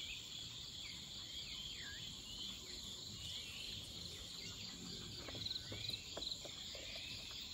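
Insect chorus: a steady high-pitched trilling, with short arching chirps repeating over it about once a second and a few faint clicks about five to six seconds in.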